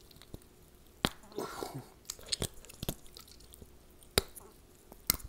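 A person biting, tearing and chewing raw ribeye steak. Sharp, wet mouth clicks and smacks come irregularly, about a second apart, the strongest about a second in and about four seconds in.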